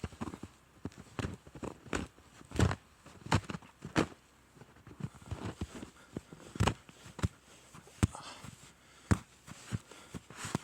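Footsteps crunching through deep snow at an uneven pace, roughly one step a second.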